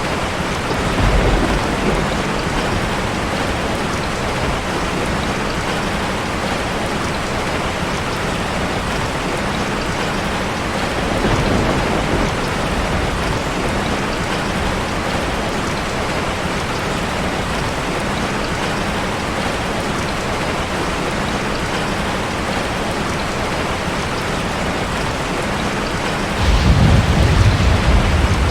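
Heavy rain hitting a car's roof and windows, heard from inside the car as a steady patter. Low rumbles of thunder swell about a second in and again around twelve seconds, and the loudest rumble comes near the end.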